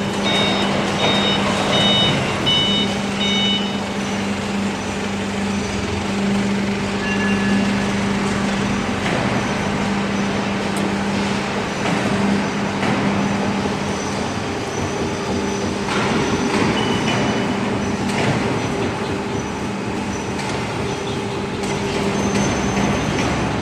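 CNC hydraulic profile bending machine running: the hydraulic pump gives a steady hum under a noisy mechanical wash, with scattered knocks and a few short high beeps.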